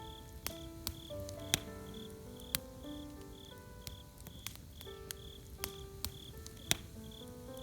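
Crickets chirping in a steady rhythm, about two to three chirps a second, over a campfire crackling with sharp pops, the loudest about a second and a half in, about two and a half seconds in, and near the end. Soft music of slow held notes plays underneath.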